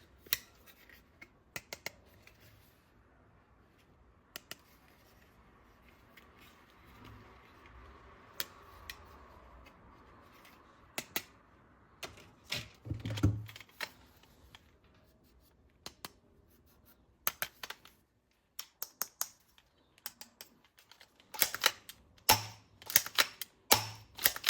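Hard plastic toy parts being handled, with scattered sharp clicks and snaps, a short cluster about halfway through and a quick run of clicks near the end.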